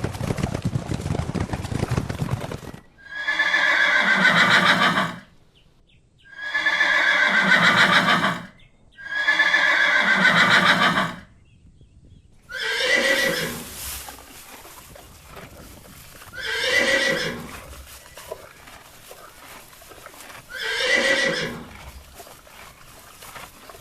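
Horses neighing: six whinnies in a row, each a call that bends downward in pitch. The first three are loud and about two seconds long; the last three are shorter and softer, spaced about four seconds apart. A dense rumble of hoofbeats fills the first few seconds before the first neigh.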